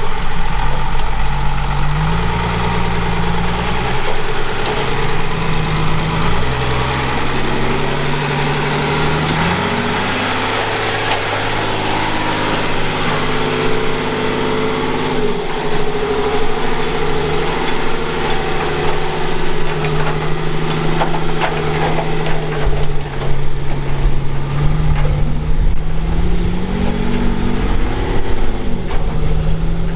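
Off-road vehicle engine running under changing throttle, its pitch stepping up and down several times, with a rise and fall near the end. Uneven knocks and clatter come over it in the second half.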